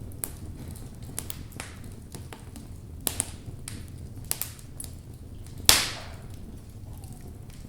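Logs burning in a fireplace: scattered sharp crackles over a low, steady rumble from the fire, with one loud pop about three-quarters of the way through.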